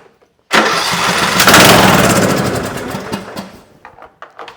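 Briggs & Stratton engine on a Troy-Bilt Pony riding mower firing on starting fluid: it catches suddenly, runs for about three seconds and dies out, followed by a few faint clicks. Running only on starting fluid is the sign of a fuel-delivery fault: there is spark and air, but no fuel is reaching the engine.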